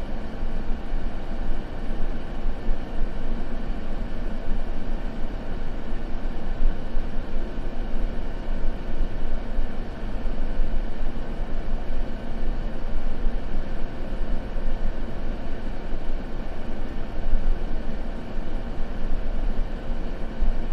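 Continuous white noise for sleep, a steady hiss weighted toward the low end so that it sounds deep and rumbling, with no pops or crackles.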